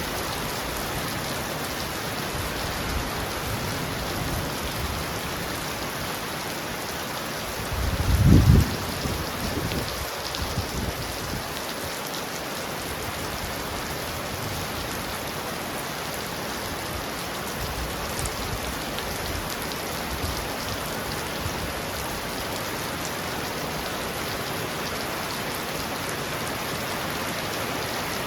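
Heavy rain pounding steadily on a roof. About eight seconds in, a short low rumble of thunder rises and dies away over the next few seconds.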